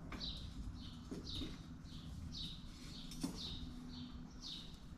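A small bird chirping over and over, short high notes falling in pitch about twice a second, with one sharp click past the middle.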